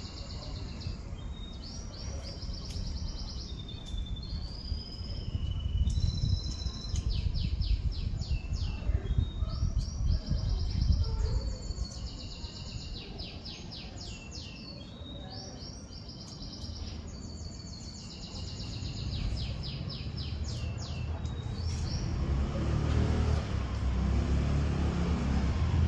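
A songbird singing repeated phrases of high notes and quick trills, with short pauses between phrases, which stop about 21 seconds in. A low rumble runs underneath and grows louder over the last few seconds.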